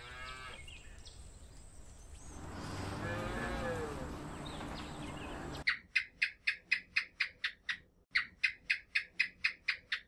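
Cattle mooing: a moo that rises and falls in pitch about three seconds in. About halfway through it gives way to a rapid series of high, sharp chirps, about five a second, in two runs broken by a short pause.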